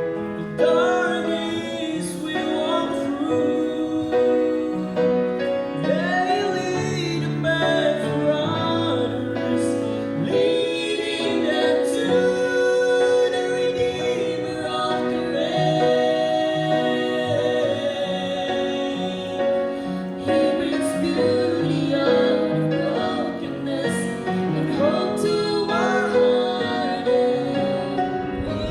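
Singers performing a slow gospel song with piano accompaniment.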